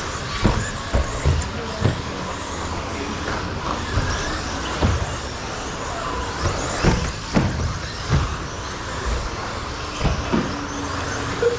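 Electric RC stadium trucks with 13.5-turn brushless motors racing on a carpet track: a steady whirring of motors and tyres with faint rising and falling whines, broken by frequent sharp knocks.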